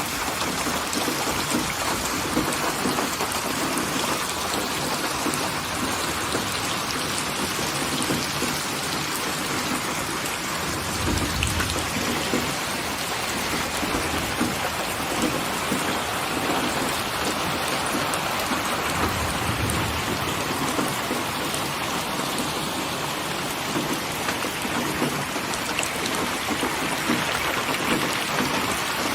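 Steady rain falling, a dense even hiss of drops, with two brief low rumbles about a third and two-thirds of the way through.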